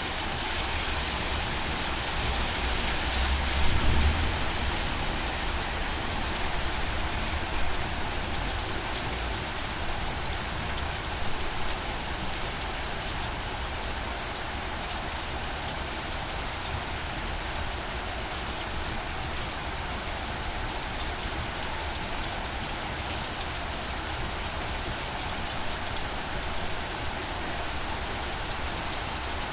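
Steady rainfall, an even hiss of drops on surfaces, with a brief low rumble about four seconds in.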